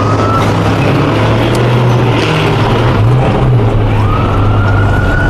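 Car engine running loudly under way, with a steady low drone that shifts slightly in pitch and a high whine that rises and then holds twice, once at the start and again about four seconds in.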